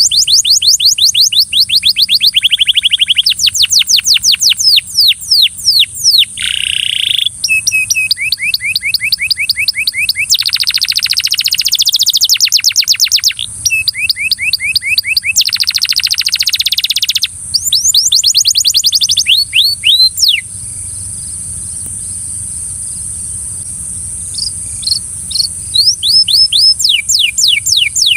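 Belgian canary singing a song of rapid rolls of repeated high notes, each roll at a different pitch. The bird breaks off for a few seconds about two-thirds of the way through, then starts again. A steady high hiss runs underneath.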